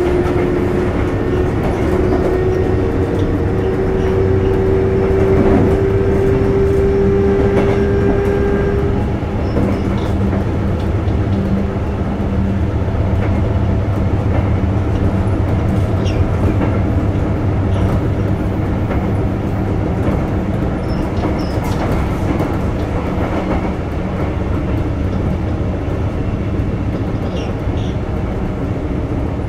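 Sotetsu 8000 series electric train running, heard from inside the car: steady rumble of wheels on rail with some clickety-clack. A whine from the Hitachi IGBT-VVVF traction drive rises slowly in pitch for about nine seconds, then drops out.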